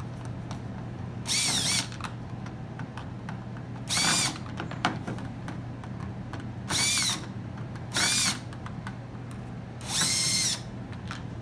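Power drill run in five short bursts, each spinning up and winding down, with small clicks of handling in between: screws being driven out to take the training wheels off a kids' 12V ride-on motorcycle.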